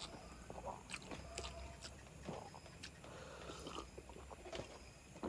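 Soft, close-miked chewing of chicken curry and rice, with scattered wet lip smacks and small clicks and the sticky squish of fingers mixing rice and curry.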